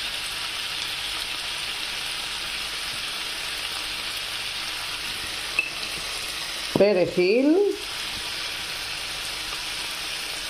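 Hake fillets and prawns frying in oil in a frying pan, a steady sizzle.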